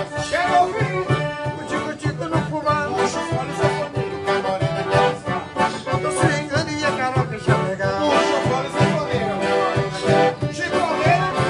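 Forró pé de serra music led by accordion, with a steady low drum beat and bright high percussion keeping time.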